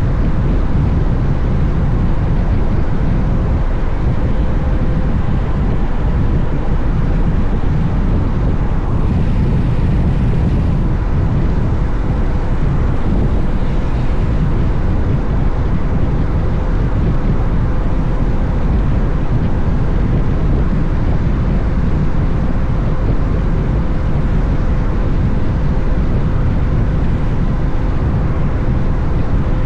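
Steady riding noise from a Honda X-ADV motorcycle under way: a low, even rush of wind over the microphone with the engine running steadily underneath, no gear changes or revving.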